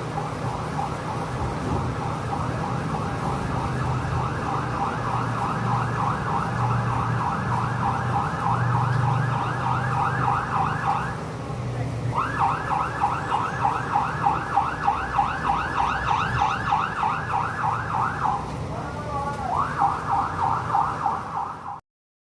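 Emergency vehicle siren in fast yelp mode, rapid rising sweeps several times a second over a low steady rumble. It pauses briefly partway through, changes pattern for a moment near the end, then cuts off suddenly.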